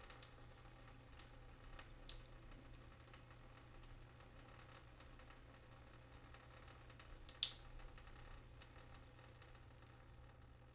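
Single water drops falling at irregular intervals, each a short sharp drip, the clearest few near the start, about two seconds in and about seven and a half seconds in, over a faint steady hum.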